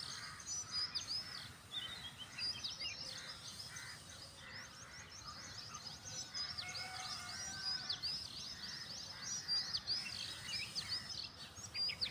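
Small birds chirping, a dense run of short high chirps over faint background noise.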